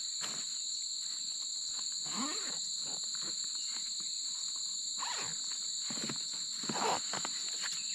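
Steady, high-pitched chorus of insects such as crickets, with a few soft rustling and handling noises about two, five and seven seconds in.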